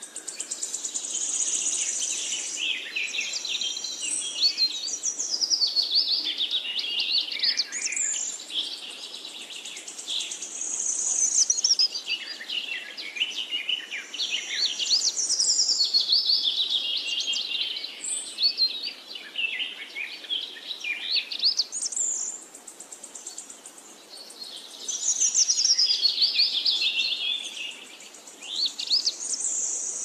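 Bird song: a songbird singing long phrases of quick, high chirps and warbling trills, each a few seconds long with short pauses between.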